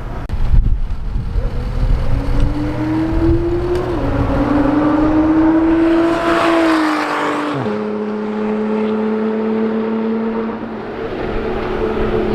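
Sports car engine under hard acceleration: the note rises, drops once with an upshift about four seconds in, and climbs again. A little before eight seconds in the pitch drops sharply as the car goes by, and it then holds a lower, steadier note as it pulls away. A short thump comes near the start.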